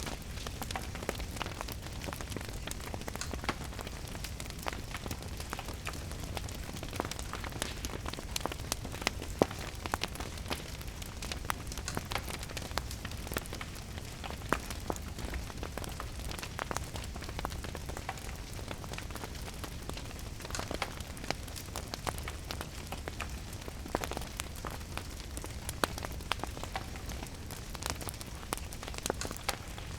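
Steady rain mixed with a crackling wood fire: many small irregular pops and snaps over a constant hiss and a low rumble.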